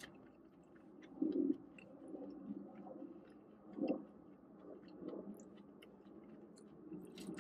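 Close-up chewing and wet mouth sounds of a person eating a mouthful of chicken burrito bowl, with many small light clicks; the chewing is loudest about a second in and again around four seconds in.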